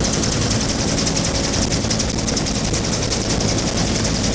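Bell UH-1 Huey helicopter in flight: a steady, loud turbine-and-rotor noise with the rapid, even chop of its main rotor blades.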